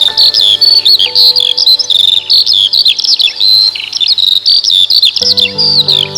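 Many songbirds chirping and whistling in quick, overlapping phrases, over soft sustained music notes that shift to new chords about five seconds in.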